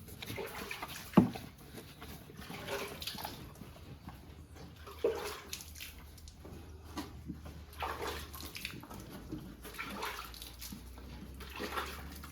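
A cow eating her feed ration: irregular wet snuffling and munching sounds, with one sharp knock about a second in.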